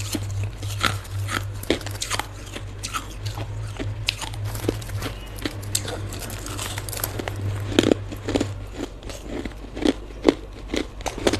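Hard ice being bitten and chewed close to the microphone: a run of sharp, irregular crunches. A steady low hum sits underneath and drops away for a while near the end.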